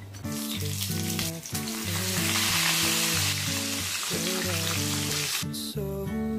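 Pieces of battered food frying in hot oil in a small frying pan, sizzling loudly; the sizzle swells after about a second and a half and cuts off about five and a half seconds in.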